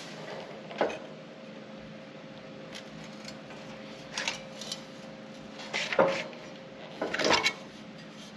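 Sheet metal being worked on a metal brake, bent a little at a time into a rolled curve: four short metal knocks and clatters, the loudest about six seconds in, over a steady low hum.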